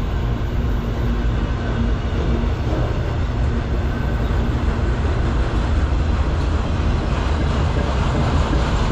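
Autorack cars of a freight train rolling past close by: a steady, loud rumble of steel wheels on rail.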